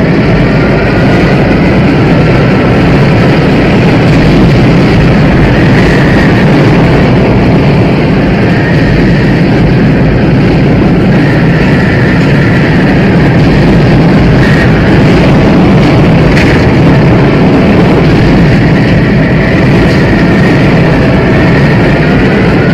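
Tornado wind effect from the film soundtrack: a loud, steady roar of storm wind, with faint high tones coming and going above it.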